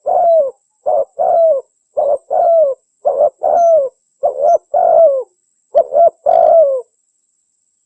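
Spotted dove (tekukur) cooing in a quick series of paired coos. Each pair is a short note followed by a longer note that slides down in pitch. The series stops about a second before the end.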